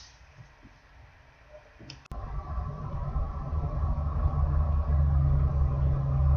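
Near silence for about two seconds, then an abrupt start to a steady low mechanical hum and rumble that keeps going without change.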